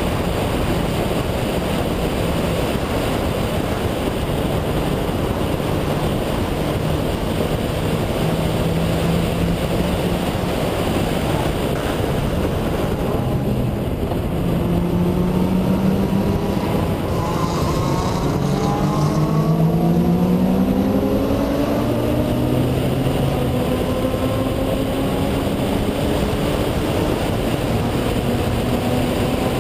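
Mazda RX-7 FD's twin-turbo rotary engine running at speed on a track lap, over steady wind and road noise. About halfway through the engine note climbs steeply as the car accelerates hard, then falls back to a steadier note that rises slowly again near the end.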